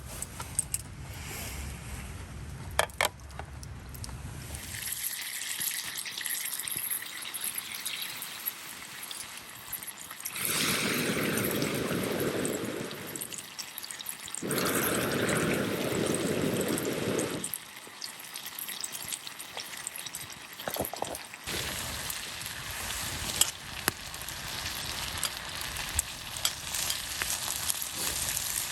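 Meat sizzling and frying in a pan over a campfire. The sound comes in several short cuts, with two louder, fuller stretches of sizzling in the middle.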